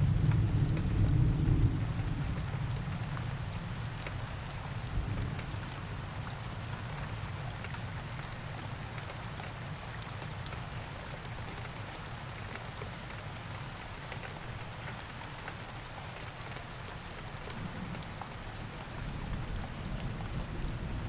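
Steady rain ambience, an even hiss with scattered drop ticks. A low thunder rumble fades out over the first couple of seconds and swells again near the end.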